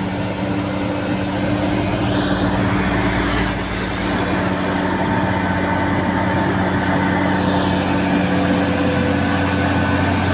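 Heavy truck engine running steadily, a constant low hum. A passing hiss swells and fades about two to four seconds in.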